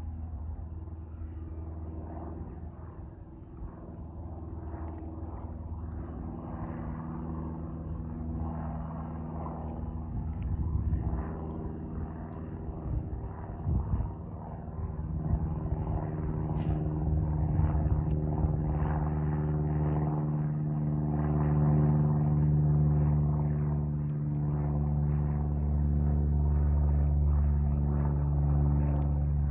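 Aircraft engine drone, a steady low hum with several held tones, growing louder through the first twenty seconds or so and then holding.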